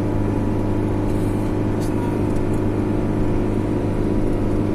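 Steady drone of a motor vehicle's engine and road noise while driving, with an even low hum.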